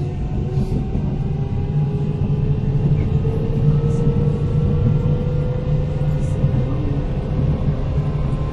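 Interior running sound of a Kintetsu 8000 series electric train car: a steady low rumble of wheels on track, with the traction motor and gear whine climbing slowly in pitch as the train picks up speed.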